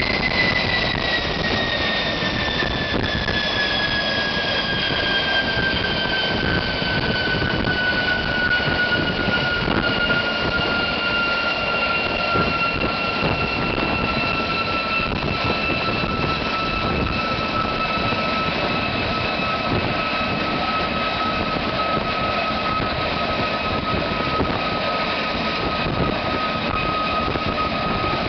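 GE J33 centrifugal-flow turbojet running with a loud, steady roar. Its high whine falls in pitch over the first ten seconds or so as the engine slows, then holds steady.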